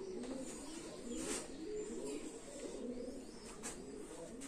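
A bird cooing over and over in low, wavering calls. A couple of brief scratchy strokes of a marker on a whiteboard come in between, about a second in and again past the three-second mark.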